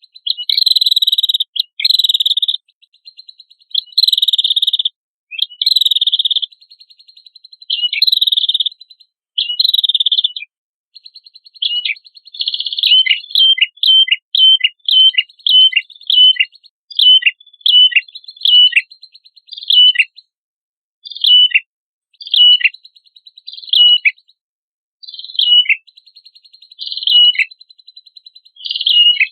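Prenjak kepala merah songbird singing: buzzy trilled phrases repeated about every second and a half, then from about eleven seconds in a running trill broken by quick downslurred notes about twice a second.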